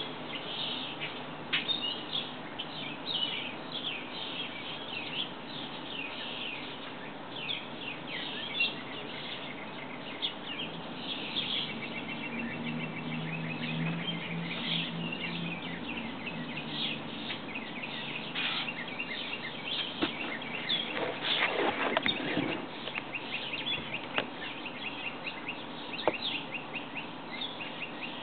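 Several songbirds chirping and calling, with many short chirps throughout and a rapid trill near the middle. A louder, fuller sound stands out about three-quarters of the way through.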